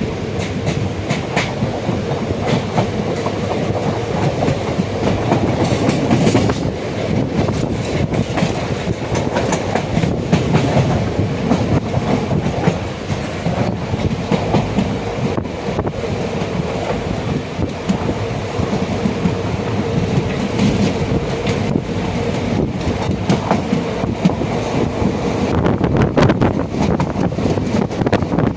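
Passenger train running along the track: a steady rumble with the wheels clattering over the rail joints.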